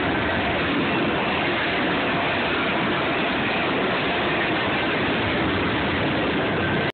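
Freight train cars rolling past close by, their steel wheels running on the rails with a steady rumbling noise. The sound cuts off abruptly at the very end.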